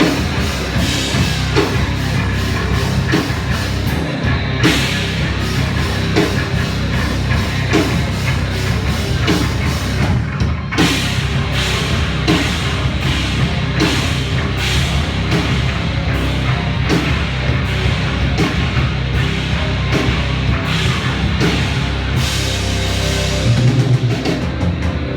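Loud heavy-metal-style rock played live by a band: distorted guitar and bass over a steady drum-kit beat.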